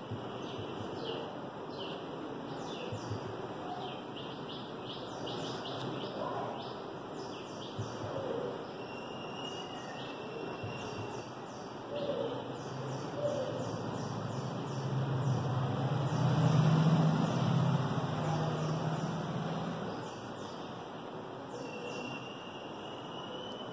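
Birds chirping: many short, quick chirps, bunched in flurries, over a steady background hiss. A low hum swells a little past the middle, becomes the loudest sound, and fades away again.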